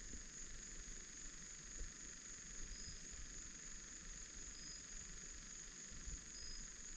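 Faint steady trilling of crickets at dusk, with a short high chirp that repeats about every two seconds, over a low rumble.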